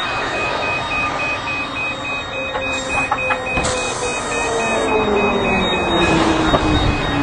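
A high electronic alarm beeps steadily and rapidly over a constant rushing noise, while a lower tone slowly falls in pitch over several seconds.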